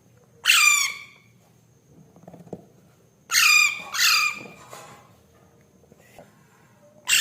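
Baby parrot calling: three short high-pitched calls that fall in pitch, one about half a second in and two in quick succession around the middle.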